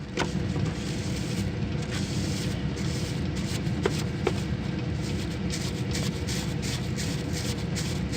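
Liquid spraying steadily onto an evaporator coil during degreasing and rinsing, with many small crackles and clicks through the spray. The spray starts right at the beginning.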